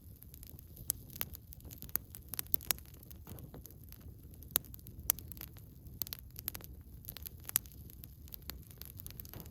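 Campfire of burning logs crackling: irregular sharp pops and snaps, a few louder ones about halfway through, over a low steady rumble.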